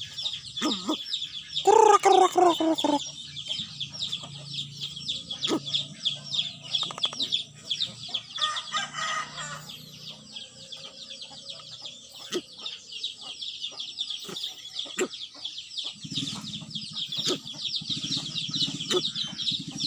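A rooster crows once about two seconds in, over a steady background of rapid high-pitched chirping.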